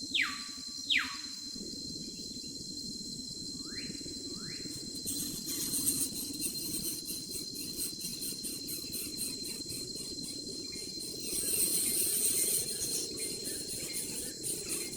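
Outdoor insect chorus with a steady high-pitched whine. A bird gives four sharply falling whistled calls in two pairs in the first few seconds. From about a third of the way in, a fast, even pulsing insect chirring joins and swells for a moment after the middle.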